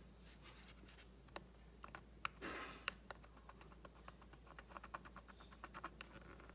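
Faint scratching and small ticking clicks of the printed markings on a counterfeit Dyson Supersonic hairdryer's plastic casing being scraped, with a short rasping scrape about two and a half seconds in.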